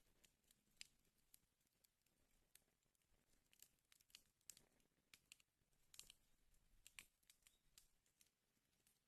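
Wood fire burning in a fireplace, crackling quietly with irregular sharp snaps and pops.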